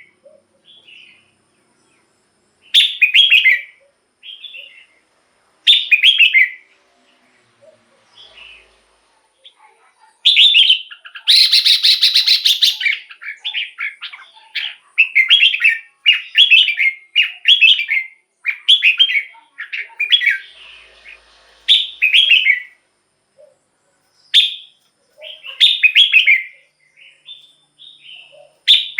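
Red-whiskered bulbul singing: short, bright, warbling phrases, spaced a few seconds apart at first, then a fast run of phrases one after another through the middle, with a harsh scratchy burst among them.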